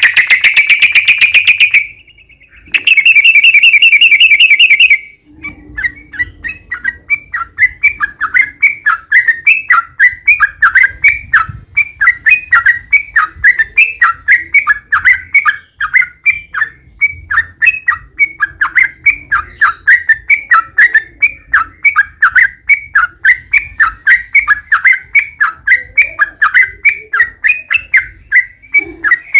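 Yellow-vented bulbul (trucukan) singing: two long, very rapid trills in the first five seconds, then a fast run of short falling chirps, about three a second.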